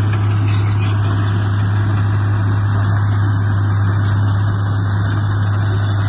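Heavy construction machine's diesel engine running steadily, a constant low drone with no change in speed.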